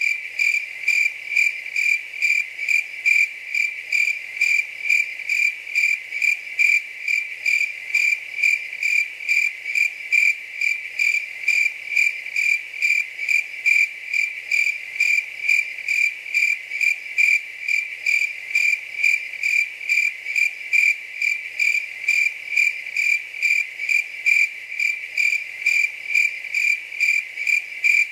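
Cricket chirping in a steady, even rhythm of about two to three high chirps a second.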